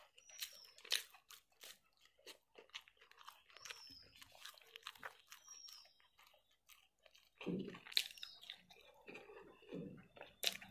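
Close-miked chewing of a mouthful of spicy mutton liver curry and rice: wet, sticky mouth noises with many sharp lip-smacks and clicks. From about seven and a half seconds in, deeper and louder mouth sounds join the chewing.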